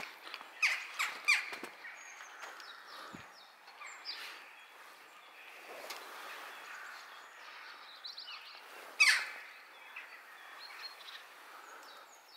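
Birds calling outdoors: three loud, short, harsh calls about a second in and another near nine seconds, with faint high chirps from small birds in between over a steady background hum.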